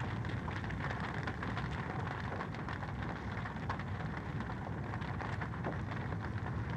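Wood fire crackling in a fireplace: a steady hiss with frequent small, sharp pops and snaps scattered irregularly through it.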